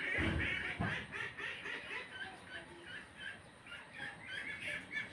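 Birds calling over and over in the background, short chicken-like clucks and chirps. A dull low thump or two comes in the first second.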